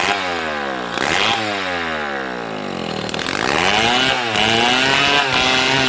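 Stihl MS 070 two-stroke chainsaw sawing palm wood. Its engine speed drops twice in the first three seconds, then it revs back up about three seconds in and runs steadily at high speed.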